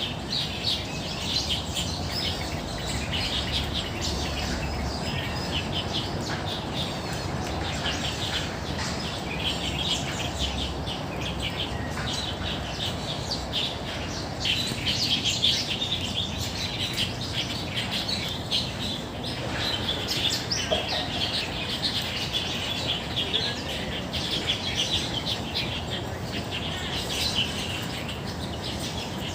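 Many birds chirping and singing at once in park trees: a dense, continuous chorus of short high chirps, over a steady low background rumble.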